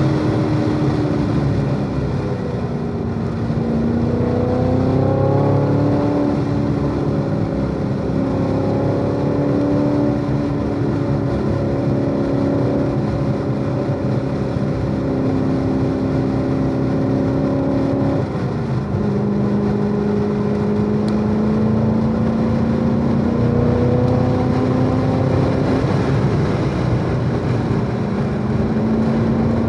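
Chevrolet Corvette C7 Z06's supercharged V8 pulling around a race track, its pitch dipping early, then climbing slowly, dropping suddenly about two-thirds through and climbing again, over steady wind and tyre noise.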